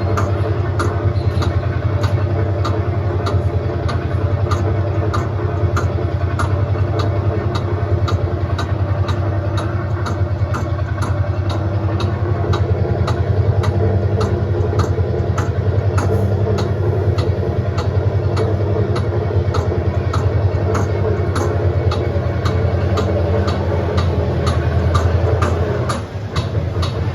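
Tractor engine running steadily with a low hum, with a regular clicking about twice a second throughout. The engine sound dips briefly near the end.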